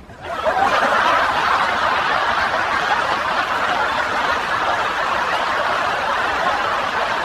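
Several people laughing together in a long, steady outburst that starts just after the punchline.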